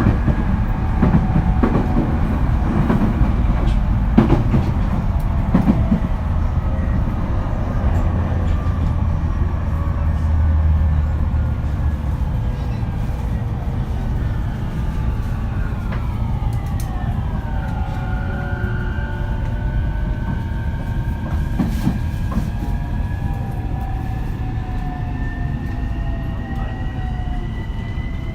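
Interior running sound of an E231 series electric train: low rumble with wheel clicks over rail joints, then the VVVF inverter's whine, its tones sliding steeply down and then rising slowly, as the train slows toward a station. This is the inverter sound nicknamed the "crashing inverter" (墜落インバーター).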